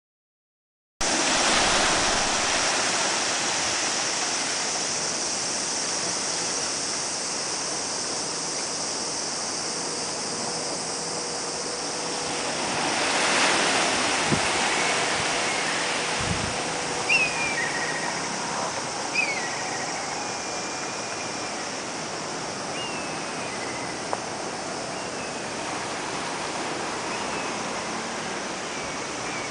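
Sea surf breaking and washing continuously, with waves starting to build ahead of an approaching typhoon; the noise sets in a second in and swells once around the middle. A few short, high chirps sound over it in the second half.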